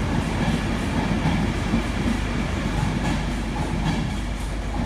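InterCity 225 electric train's Mark 4 coaches rolling past on the rails, a steady rumble with a few wheel clicks. The Driving Van Trailer at the rear goes by near the end as the train moves away.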